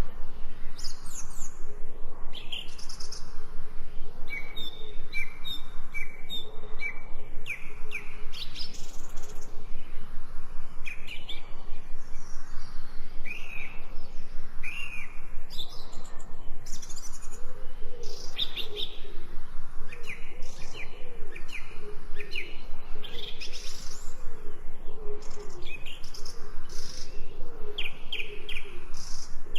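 Several birds chirping and singing in short, overlapping calls, with a lower, warbling call repeating through the second half.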